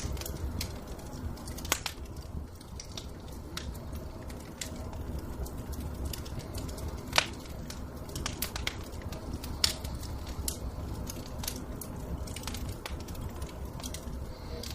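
Wood fire crackling in a fireplace, with sharp pops at irregular moments, the loudest about 2, 7 and 10 seconds in, over a low steady rumble.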